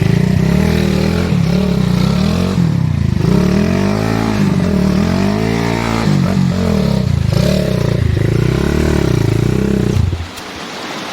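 Trail motorbike engine revving up and down as it is ridden, its pitch rising and falling in repeated swells; the engine sound drops away sharply near the end.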